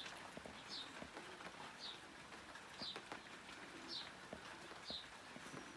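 A small bird repeating a short, high, slightly falling call about once a second, six times, faint against quiet outdoor background.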